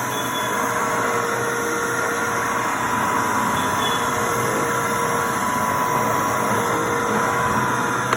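Tornado CV 30/1 vacuum cleaner running steadily, a constant motor whine over airflow noise. Running with a clog in the wand.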